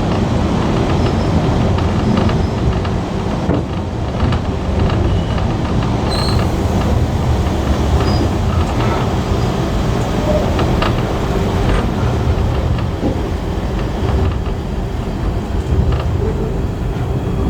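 Heritage passenger carriage in motion behind a steam locomotive: a steady rumble of wheels running on the track, with a few faint clicks.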